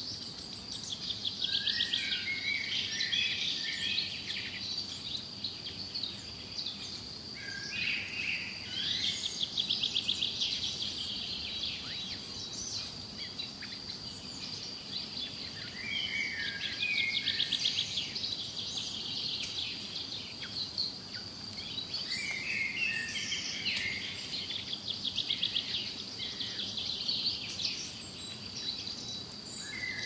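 Songbird chirping and warbling in short repeated phrases that come back every five to eight seconds, over a steady high-pitched whine.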